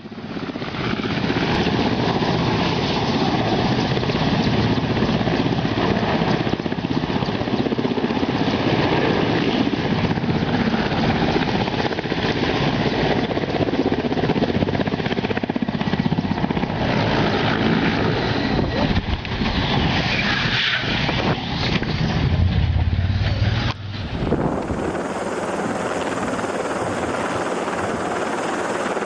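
Helicopter rotor and engine running loud and steady. About 24 seconds in, the sound cuts abruptly to a different recording of a helicopter.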